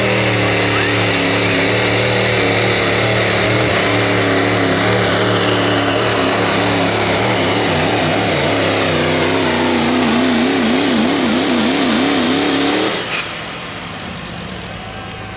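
Diesel 4WD pickup engine at full throttle pulling a sled, with a high whistle over the engine note. Near the end the engine pitch wobbles up and down as the truck bogs down under the load, then about 13 s in the throttle is cut and it drops to a low idle.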